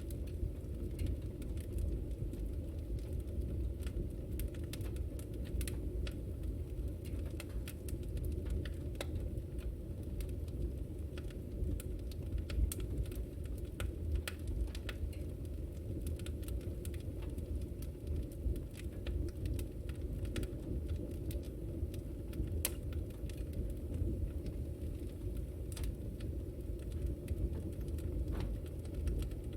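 Wood fire crackling and popping in a fireplace: irregular sharp snaps scattered over a steady low rumble of the flames.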